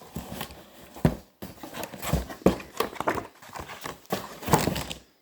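Packaging being handled: irregular crackling and rustling of paper or plastic wrapping, with a few soft knocks of objects being moved about.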